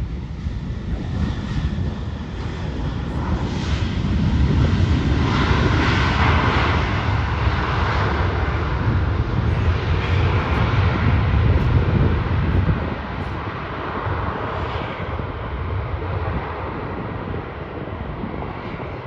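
Airliner passing close by, its engines rumbling and roaring: the noise builds over a few seconds, stays loud for about eight seconds, then falls away sharply and tails off.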